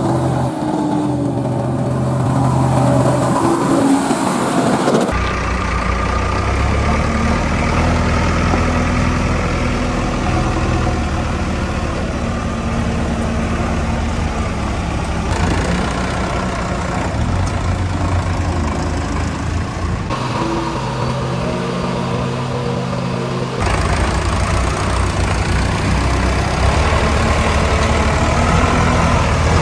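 Diesel engines of a backhoe loader and tractors running and revving under load. The engine note changes abruptly several times.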